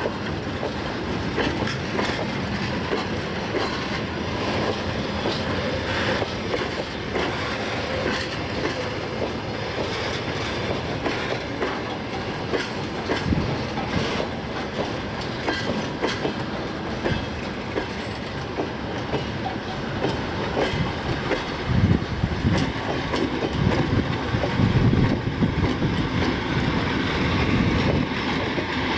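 Freight wagons of a works train rolling past, their wheels clattering over rail joints. Near the end the diesel engine of a ChME3 shunting locomotive grows louder as the locomotive comes alongside.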